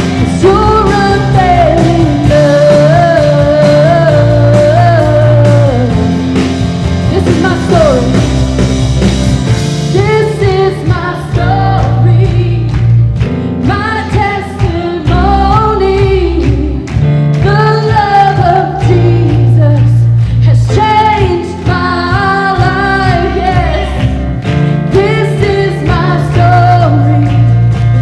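Live church worship music: a voice singing a melody over a full band.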